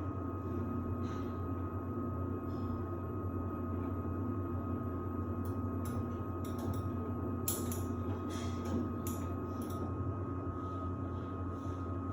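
Samsung WD70T4047CE washer-dryer running a wash-and-dry programme: a steady low hum under a constant high whine, with a few light clicks and taps about halfway through.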